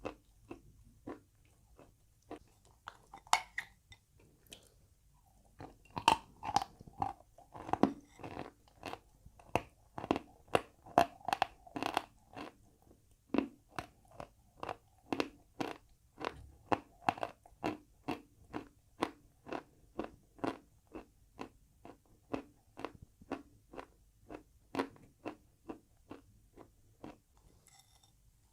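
Close-up crunching as a mouthful of chalk with paste is chewed: crisp, regular crunches about two a second, loudest and densest from about six to twelve seconds in, stopping shortly before the end.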